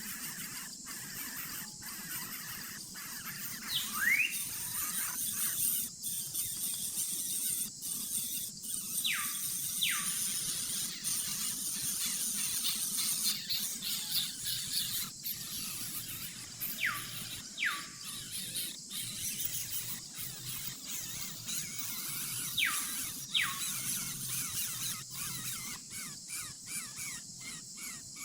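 Bird giving short whistled calls that sweep down in pitch, mostly in pairs, a few times, over a steady high hiss.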